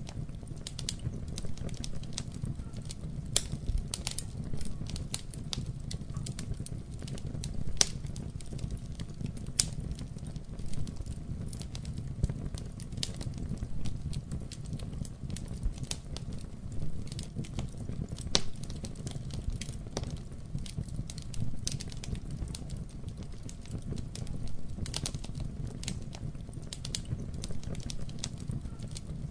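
Wood fire burning in a fireplace, with irregular sharp crackles and pops over a low, steady rumble of flame.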